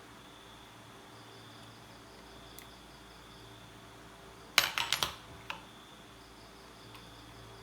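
A quick run of four or five sharp clicks about halfway through, then one softer click, like small hard parts or tools being handled on a work surface. A steady, faint, high-pitched background tone runs underneath.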